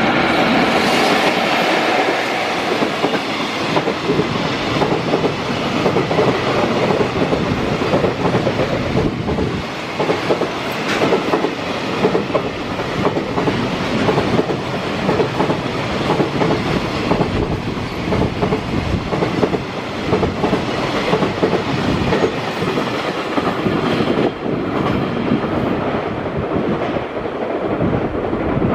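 Freight train of an EF65 electric locomotive and container flat wagons passing close by, its wheels clattering over rail joints in a steady, continuous run. A whine is mixed in during the first couple of seconds.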